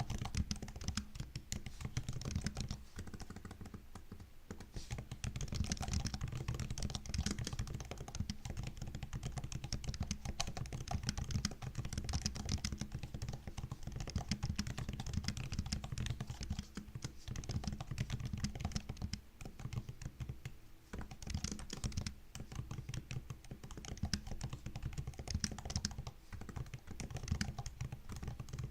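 Continuous fast typing on a MacBook laptop keyboard: many quick key clicks a second, broken by a few short pauses.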